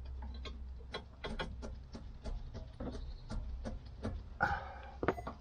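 Ratchet clicking in a quick, uneven series as a 13 mm brake caliper bolt is undone, with two louder metallic clacks near the end.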